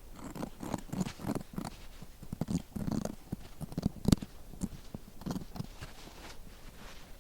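Irregular soft thumps and clicks of fabric and tools being handled on a work table during cutting, with a few sharper knocks.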